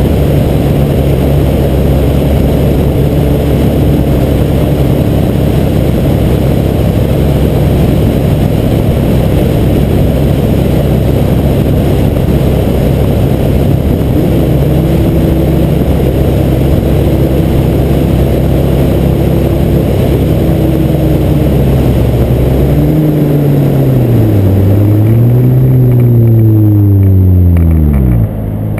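Wind rumble and car engine noise picked up by a GoPro HD Hero2 mounted on the outside of a car's windshield at freeway speed, a dense low rumble with a steady engine tone. In the last few seconds the engine pitch falls and rises several times, then the sound cuts off abruptly.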